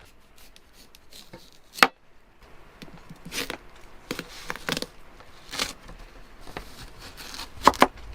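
Scattered sharp knocks and scrapes: a loud knock about two seconds in, several more in the middle, and a close pair near the end.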